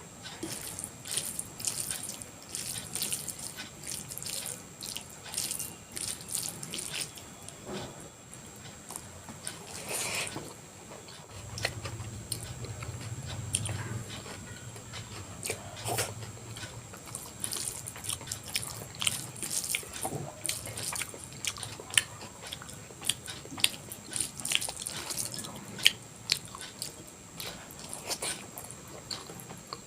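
Close-miked eating of soft, spicy vegetable khichdi, aloo bharta and omelette: steady chewing with many short, wet mouth clicks and smacks, and now and then a sharper bite.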